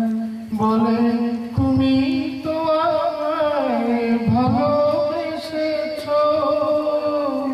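A man singing a romantic song, holding long notes and sliding between pitches, with short breaks between phrases.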